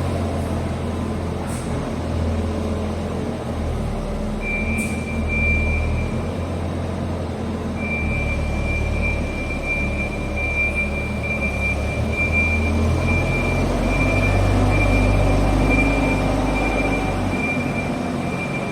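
Diesel engine of a farm telehandler running steadily with a low rumble. A thin high whine or tone joins about four seconds in, breaks off briefly, then carries on.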